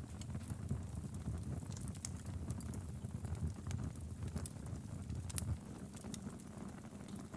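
Wood fire burning in a fireplace: a low, steady rumble of flames with irregular sharp crackles and pops, several a second, one louder pop about five seconds in.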